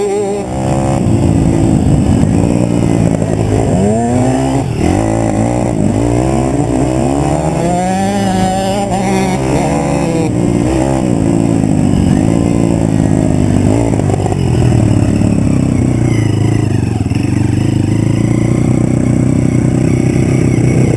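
Pit bike engines revving up and down over and over, their pitch rising and falling every second or two, more than one at a time in places. In the last few seconds the engine sound holds steadier.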